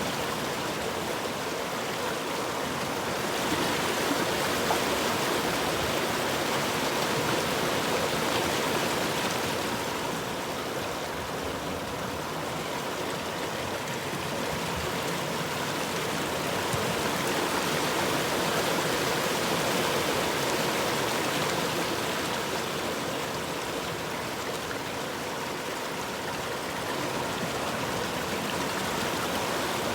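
River water flowing in a steady rush that swells and ebbs slowly in level.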